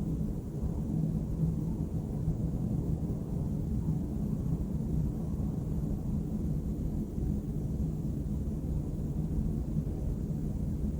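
City background noise: a steady low rumble of traffic with no distinct events standing out.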